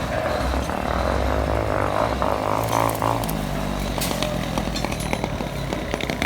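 Diesel engine of heavy construction machinery running steadily, its pitch shifting about three seconds in, with scattered knocks.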